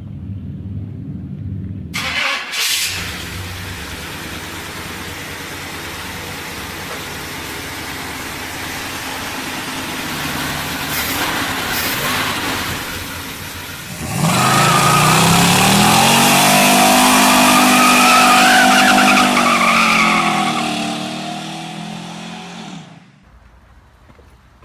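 Car engine running. About halfway through it gets much louder, revving and accelerating with the pitch rising and falling, then fades away near the end.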